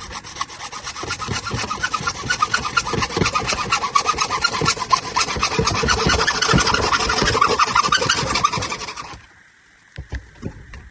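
Hand saw cutting through a drain stack pipe with fast back-and-forth strokes, growing louder and then stopping suddenly about nine seconds in. A few light knocks follow.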